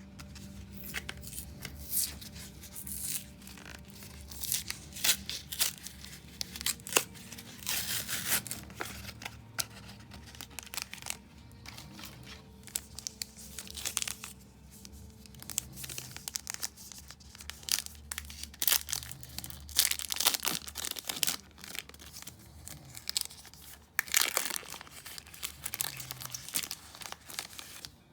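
Foil wrapper of a Yu-Gi-Oh trading-card booster pack being torn open and crinkled, in many irregular sharp rustles.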